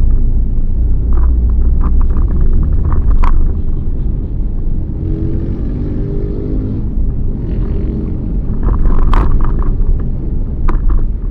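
Car on the move, heard from inside: a steady low rumble of engine and road noise, with scattered short clicks and knocks and a brief low hum about halfway through.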